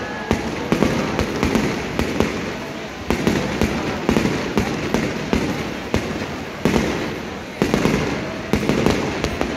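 Aerial fireworks display: a rapid run of shell bursts and crackling, with sudden louder bangs about three and seven seconds in.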